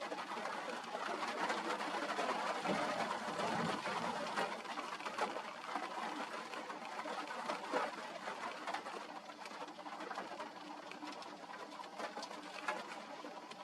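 Rain and wind making a steady hiss, with pigeons cooing through it.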